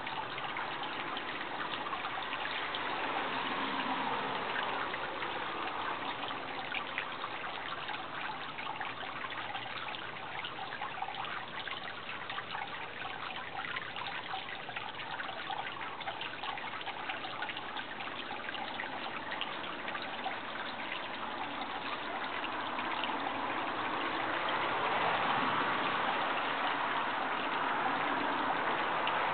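Running water trickling steadily, growing a little louder near the end.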